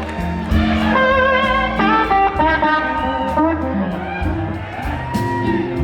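Live blues band playing: an electric lead guitar holds long, wavering notes over bass and drums, with steady cymbal hits.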